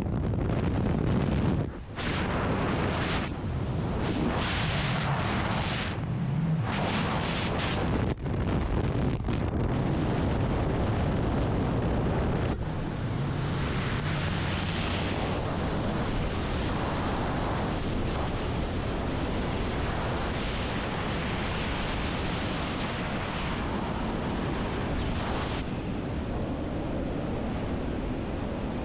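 Loud rushing wind buffeting a skydiver's camera microphone, with gusty rumbling that eases briefly twice early on. From about twelve seconds in it settles into a steadier roar.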